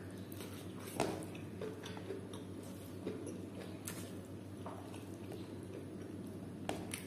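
Close-up chewing of a mouthful of rice and pork eaten by hand, with small wet mouth clicks and smacks over a faint steady hum; a sharper click about a second in and again near the end.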